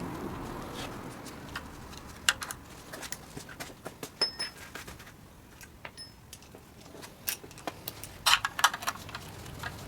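Metal hand tools and parts clinking during engine work: scattered light knocks and clicks, two short metallic pings, and a quick run of clicks near the end.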